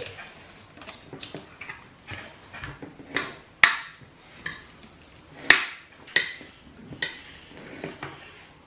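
Cutlery clinking and scraping on a dish during a meal, in a run of irregular clicks and clatters; the two sharpest strikes come about three and a half and five and a half seconds in.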